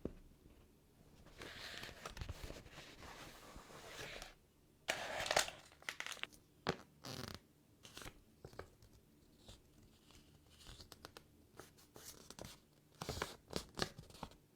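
Toy surprise-egg packaging torn open by hand: a long tearing stretch, then a sharp tear about five seconds in. Scattered small clicks and crinkles follow, with a cluster near the end.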